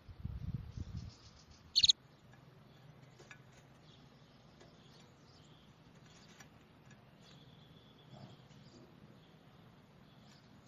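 Small birds chirping faintly with short, scattered high chirps and one brief held high note about seven seconds in. A low rumble fills the first second, and a short, loud, sharp high-pitched sound comes just before two seconds in.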